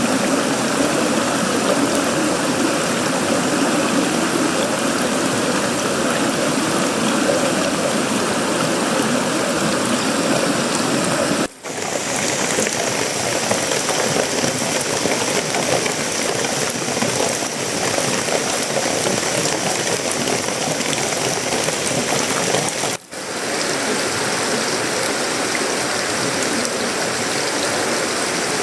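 Heavy tropical rain falling steadily on a sheet-metal roof, wood and leaves, an even loud hiss. The sound drops out for a split second twice, about a third of the way and four fifths of the way through.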